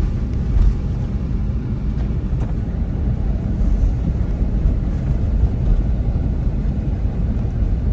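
A car driving, a steady low rumble of engine and tyres heard from inside the cabin.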